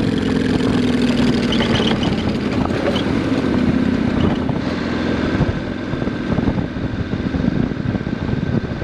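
Motorcycles riding over rough dirt: a steady engine note with frequent knocks and rattles from the bumps, under wind noise on the microphone. The engine note weakens in the second half.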